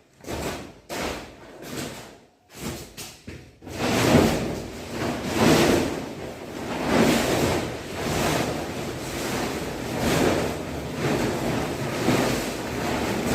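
Broom sweeping a floor: rough brushing strokes, a few short ones at first, then a steady rhythm of longer swishes about every one and a half seconds.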